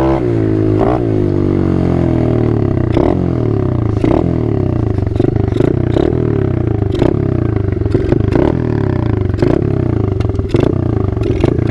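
A small Chinese dirt bike's single-cylinder engine running while being ridden, its pitch rising and falling repeatedly with throttle and gear changes. Sharp clattering knocks come about once a second.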